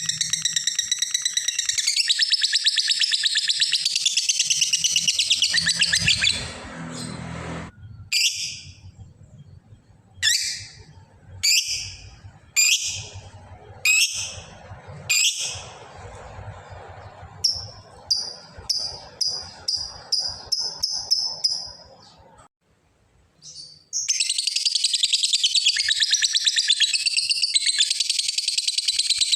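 Lovebird 'ngekek': a long, rapid, high trilling chatter, the call for a rival. About six seconds in it breaks into separate sharp chirps and a quick run of short notes, and the rapid trill starts again about 24 seconds in.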